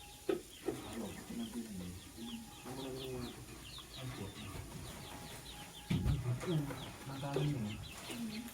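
Lovebird chirping: a rapid string of short, high, falling chirps, several a second. Lower, louder calls with a wavering pitch come and go beneath them.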